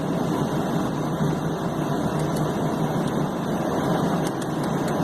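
Beechcraft King Air B200's Pratt & Whitney PT6A turboprop engines running steadily on the ground, a constant even roar with a steady low hum.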